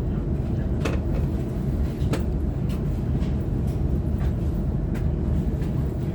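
Sydney Trains Waratah electric multiple unit running, heard from inside the carriage: a steady low rumble with a few sharp clicks at irregular intervals.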